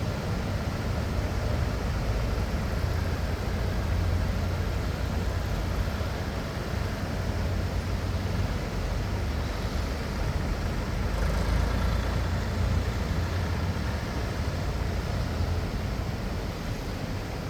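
Tractor engines running with a steady low rumble.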